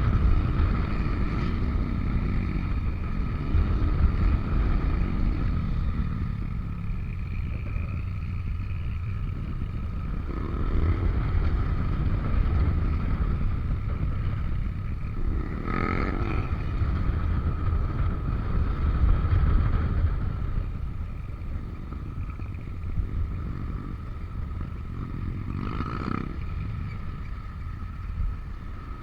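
Yamaha NMAX V3 scooter riding along with its engine running steadily under a heavy low rumble of wind and road noise, with two brief louder swells about halfway and near the end.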